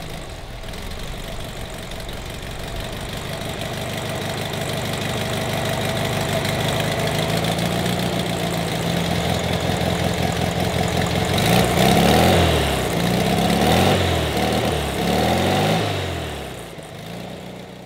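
Freshly rebuilt air-cooled VW Beetle flat-four engine on its first runs, running on an engine stand. It starts steady, then revs climb, and it is blipped up and down several times at the carburetor before winding down near the end.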